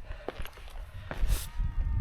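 Footsteps of a hiker climbing a rocky fell path, a few sharp scuffs and knocks. Wind starts buffeting the microphone about a second in.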